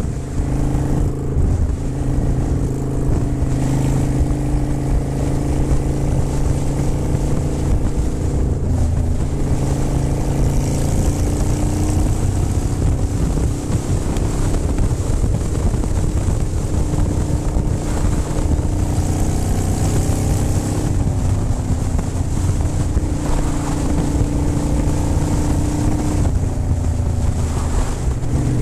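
Motorcycle engine running steadily under way, with wind rushing over the microphone; the engine note shifts pitch a few times as the throttle or gear changes.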